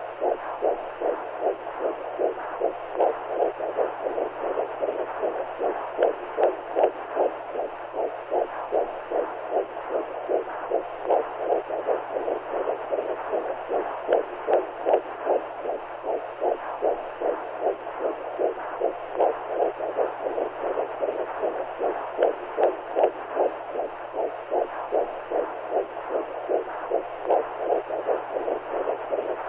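Womb sound for soothing a newborn: a steady whooshing noise that swells in an even, heartbeat-like pulse, about two beats a second.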